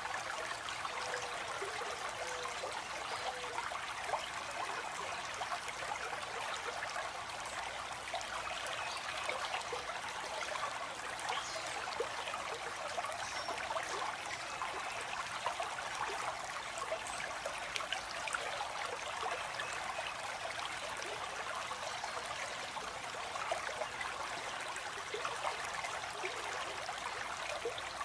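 Water flowing steadily over stones in a stream, a continuous babbling with many small splashes and trickles.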